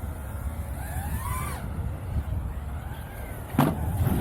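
Wind rumbling on the microphone, with faint rising-and-falling whines in the middle and one sharp knock about three and a half seconds in.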